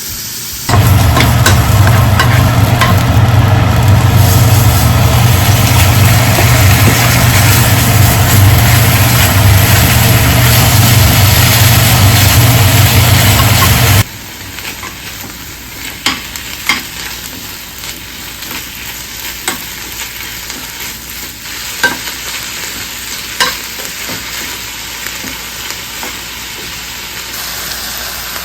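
Food sizzling in a frying pan. For the first half it is very loud with a low hum, then it cuts off suddenly to quieter sizzling with occasional clicks of a utensil stirring against the pan.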